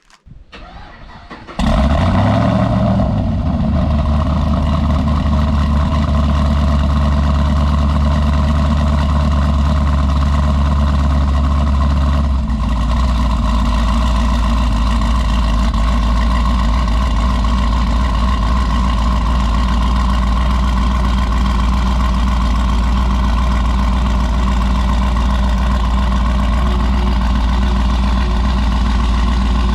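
Chevrolet Caprice PPV engine cranking and catching about two seconds in, with a brief flare, then idling steadily through the exhaust. About twelve seconds in the idle drops to a lower, steadier pitch as the fast idle after starting settles.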